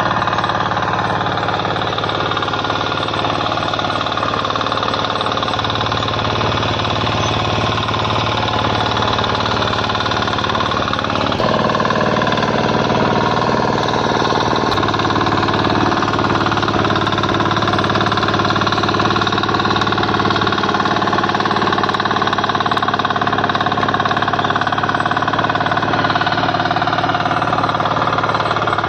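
KisanKraft 406D power tiller's 418 cc single-cylinder diesel engine running steadily with a hard, knocking diesel beat. About eleven seconds in it gets a little louder and its pitch shifts, as if the engine speed or load changes.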